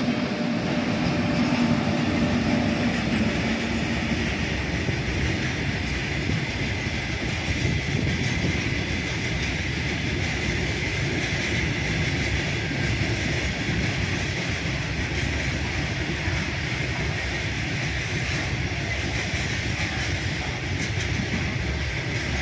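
Freight train passing: a WAG9 electric locomotive goes by at the start, followed by a long string of coal hopper wagons rolling past with a steady rumble and clatter of wheels on rail. A faint steady high whine runs through it.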